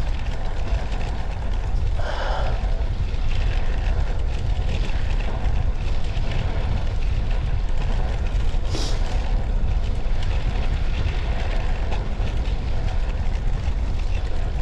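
Wind rumble on the camera microphone and road noise from a bicycle ridden at speed, steady throughout. A brief rustle about two seconds in and a short hiss near nine seconds stand out from it.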